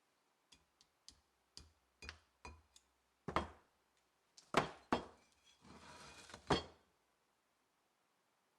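A series of metal parts clinking and knocking as they are handled and set down, with a short scrape just before the last and loudest clink.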